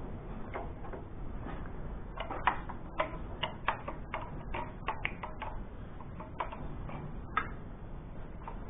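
Irregular sharp clicks and ticks from hand tools being worked on the tractor, coming several a second for a few seconds in the middle, over a low steady rumble.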